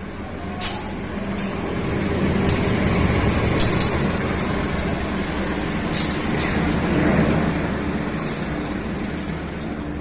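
A train passing close by: a steady low rumble that builds toward the middle and eases off, with a run of sharp metallic clacks at uneven intervals.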